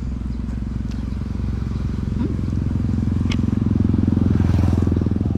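Motorcycle engine running, growing louder over the first few seconds and loudest near the end.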